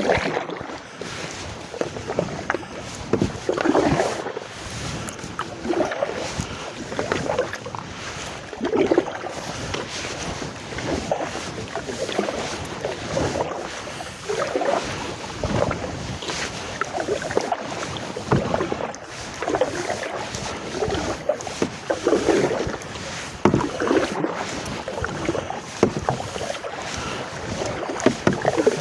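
Canoe paddle strokes in open water: a soft swish and splash repeating about every one and a half to two seconds.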